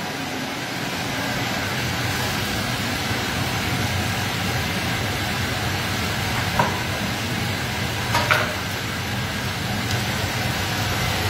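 Breaded chicken fillets deep-frying in hot oil in a frying pan: a steady sizzle, with a couple of sharp pops about six and eight seconds in.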